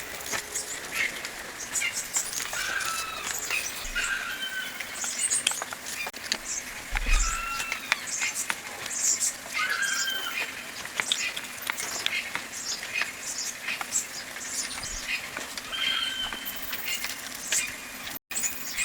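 Birds calling repeatedly in short whistled chirps, with scattered light clicks.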